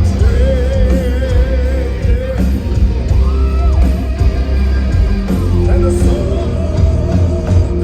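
Heavy metal band playing live: long held sung notes with vibrato over loud bass and drums.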